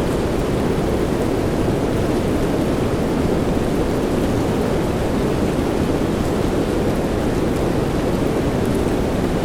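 Steady, even rain noise with a deep, low-weighted hiss and no change in level, with a few faint drop ticks near the end.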